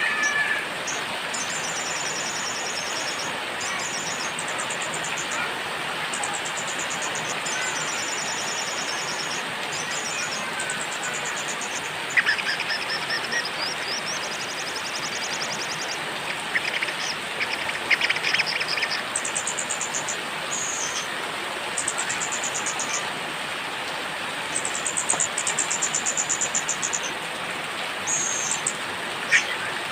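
Small songbirds chirping over steady rain: a run of short, very high, rapid trills and chirp phrases, one after another, with a few lower chirps now and then.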